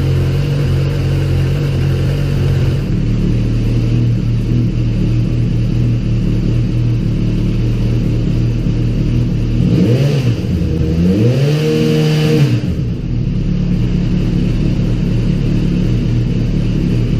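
Suzuki GSX-S1000's inline-four engine idling steadily, with two quick throttle blips about ten and twelve seconds in, each rising and falling back to idle.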